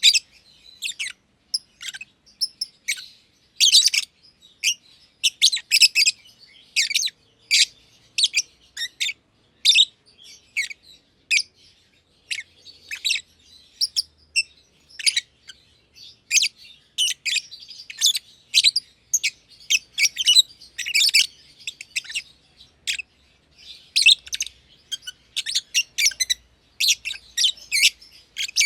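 Black-masked lovebirds (personata) chirping: a rapid run of short, shrill, high-pitched chirps, several a second, with brief pauses between bouts.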